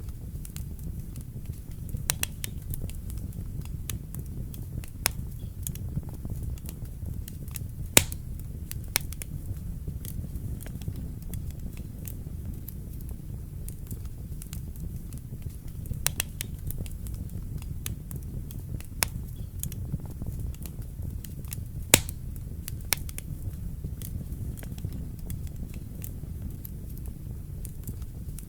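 Wood fire burning in a fireplace: a steady low rumble of the flames with irregular sharp crackles and pops, two louder pops about 8 and 22 seconds in.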